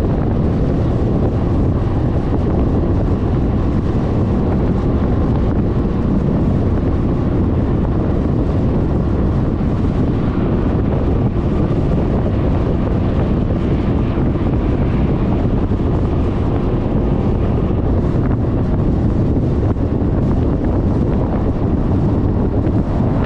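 Steady wind rumble on a GoPro's microphone while riding a Suzuki Burgman 400 scooter, with the scooter's running and road noise blended in. It is constant, with no break or change.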